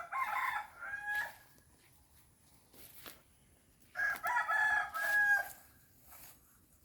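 Rooster crowing twice, each crow lasting about a second and a half, the second starting about four seconds in.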